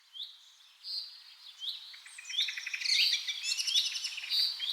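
Small songbirds chirping and trilling, several calls overlapping, with short rising chirps and rapid trills that grow busier from about two seconds in.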